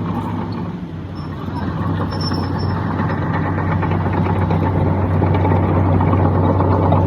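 Heavy diesel engine of earthmoving machinery running steadily with a deep hum. It dips briefly about a second in, then grows steadily louder.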